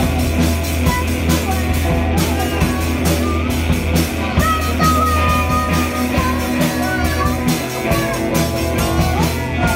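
Live rock band playing an up-tempo rock-and-roll song, with a steady beat and a driving bass line.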